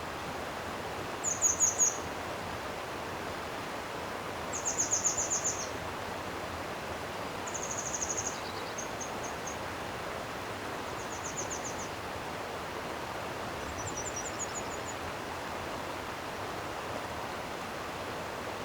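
Steady rushing of a flowing stream, with a small bird singing short, high, rapid trills over it, loudest about a second in and again around five seconds in, then several fainter phrases.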